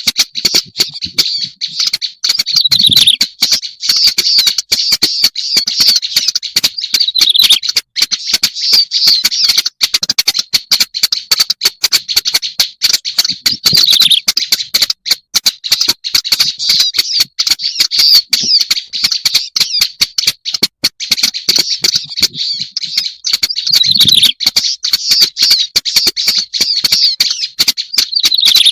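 Black-browed reed warbler song played as a bird-lure recording: a continuous, fast chatter of harsh, scratchy notes and squeaks with no pauses.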